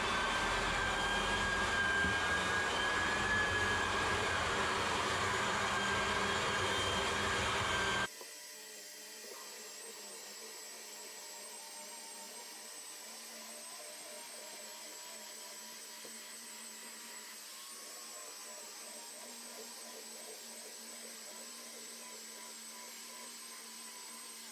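Electric floor edger sanding hardwood on 100-grit paper, its motor and dust fan running steadily with a high whine. About eight seconds in the sound drops suddenly to a much quieter, thinner version with the bass gone.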